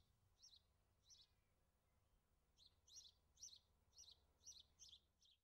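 Faint songbird chirps: a short high call repeated, sparse at first, then about two a second over the last three seconds.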